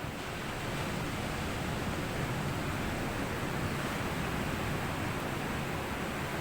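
Sea waves washing up onto a sandy beach: a steady wash of surf that swells up in the first second and then holds.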